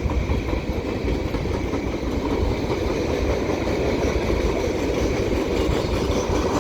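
Freight train's lumber rack cars rolling past, a steady rumble of steel wheels on the rails.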